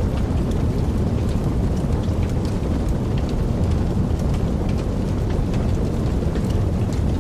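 Wood fire burning in a fireplace: a steady low rush of flames with small scattered crackles and pops throughout.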